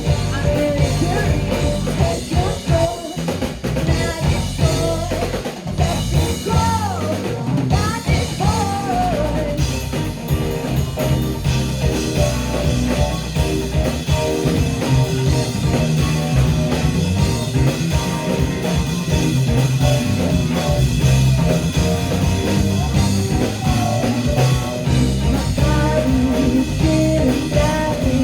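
Live rock band playing: drum kit, electric guitar and bass in full swing, with the low end thinning out briefly a few seconds in before the full band returns.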